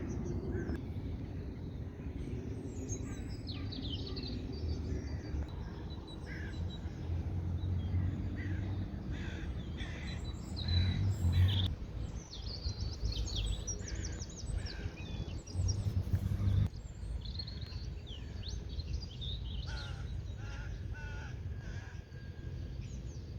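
Several birds chirping and calling, with short trills and calls coming one after another, over a steady low rumble. A few louder low thumps come about eleven and sixteen seconds in.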